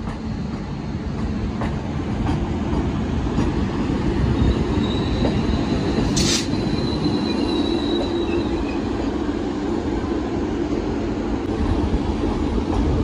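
Vande Bharat Express electric train set pulling out along the platform: a steady rolling rumble that builds over the first few seconds, with scattered wheel clicks. A thin, high wheel squeal lasts a few seconds around the middle.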